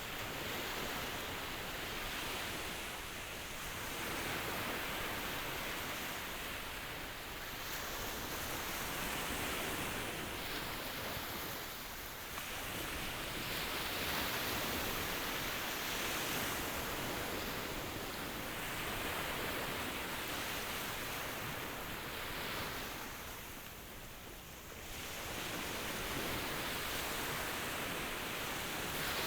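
Ocean surf: a continuous rush of waves that swells and eases every few seconds, with a deeper lull about three quarters of the way through.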